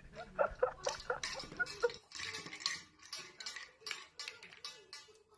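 Irregular light clicks and clinks, several a second, like small hard objects tapping or clattering.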